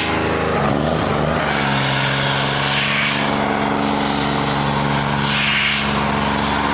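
Tractor engine running steadily under load, its pitch dropping about a second in and then holding.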